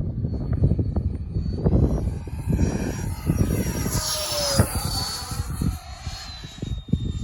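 Electric ducted-fan RC jet, a Freewing F-22 Raptor, flying overhead: a thin high fan whine that drops in pitch as it passes about four to five seconds in. Gusty wind rumbles on the microphone throughout.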